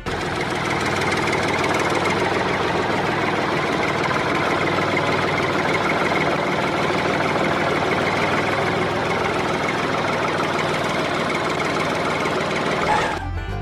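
Small electric motor driving a DIY mini thresher's spiked drum, running steadily with a continuous rattle; it cuts off just before the end.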